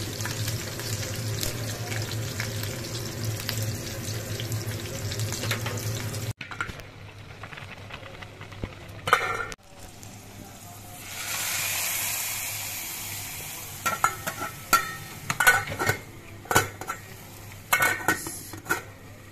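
Raisins, green chillies and green masala sizzling and crackling in hot ghee in a frying pan as they are stirred with a spoon. After a cut, a hiss rises and fades as the hot ghee mixture is tipped onto half-cooked rice in a rice cooker. Then comes a run of spoon-and-pan knocks and the clatter of the cooker's glass lid.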